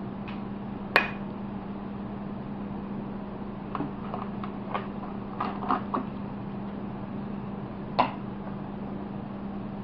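Light clinks and knocks of hard objects over a steady low hum: a sharp clink about a second in, a cluster of smaller clicks in the middle, and another clink near the end.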